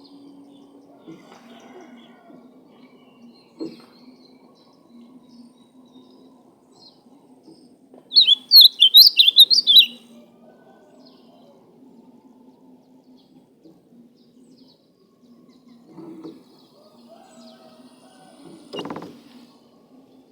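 Ultramarine grosbeak (azulão) singing one quick warbling phrase of about two seconds, roughly eight seconds in. Around it, a faint steady low hum and a few soft knocks.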